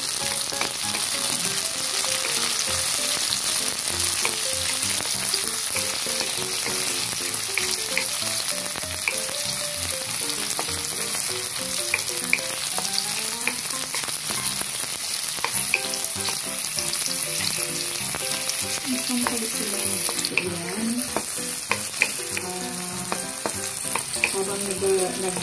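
Sliced tomatoes, onion, ginger and garlic sizzling in hot oil in a metal wok (kawali), sautéed for miso sinigang. A wooden spatula stirs them and scrapes and clicks against the pan now and then.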